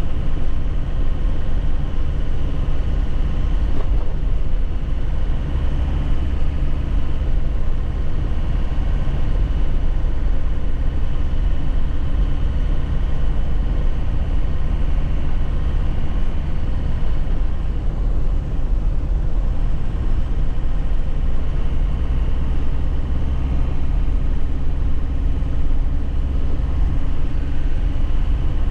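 2001 Nissan Cabstar light truck driving at a steady pace, heard from inside the cab: a continuous low engine drone with road and tyre noise.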